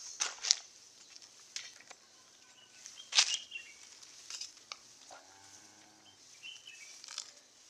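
Crisp rustling and snapping of fodder while a cow is fed, the loudest snap about three seconds in, with a short, low animal call with a falling pitch about five seconds in.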